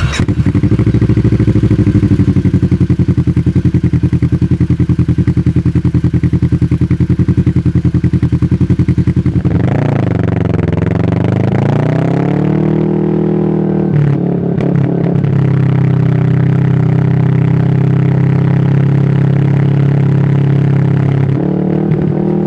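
Kawasaki Teryx KRX 1000's parallel-twin engine running through an MBRP aftermarket exhaust, first at a steady, pulsing idle. About ten seconds in the pitch dips and then climbs to a higher engine speed, which is held steadily until it eases slightly near the end.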